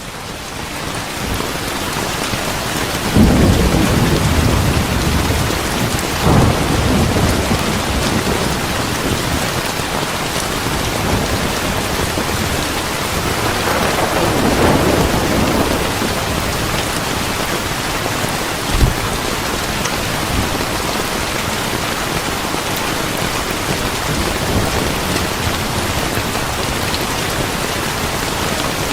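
Steady heavy rainfall, fading in over the first two seconds, with rolling thunder rumbles swelling several times and a short sharp thunder crack a little past the middle.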